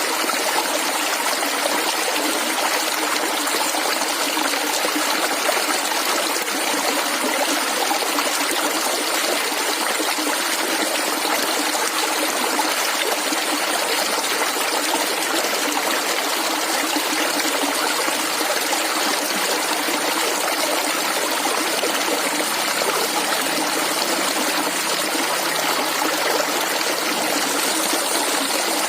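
Small stream of water flowing and gurgling steadily over stones, an even rush without breaks.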